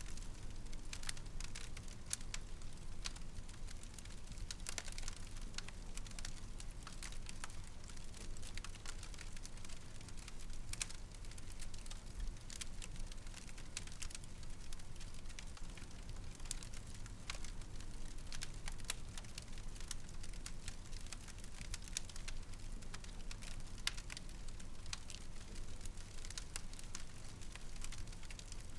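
Wood fire in a fireplace burning steadily, with irregular small crackles and pops over a low steady rumble.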